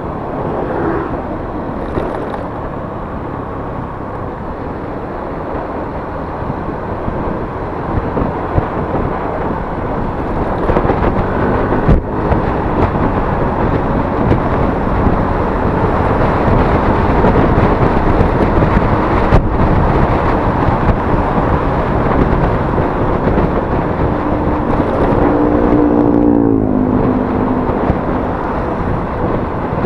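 Yamaha Mio S 125 scooter on the move, its engine running under a loud, steady rush of wind and road noise that grows louder after about ten seconds. Near the end a pitched engine note drops in pitch for a couple of seconds.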